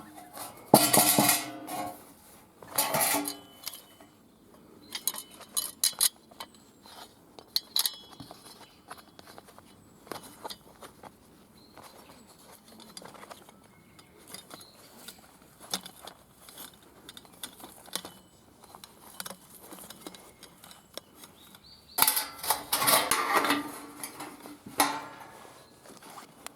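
Metal clinking and scraping, with bursts of handling about a second in, around three seconds in, and again near the end, and lighter scattered clicks in between.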